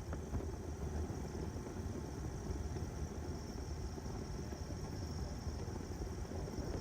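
Remos GX light sport aircraft's engine and propeller running steadily, a constant low drone with hiss above it.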